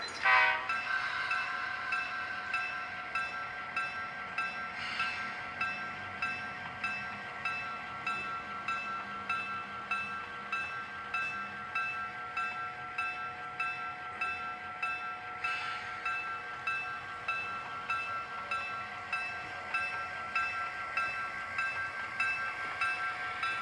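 Recorded diesel locomotive bell played through the sound decoder speaker of an Athearn DCC GP7u model locomotive. It starts with a loud strike just after the beginning, then rings steadily at about one and a half strikes a second, with short hissy bursts twice.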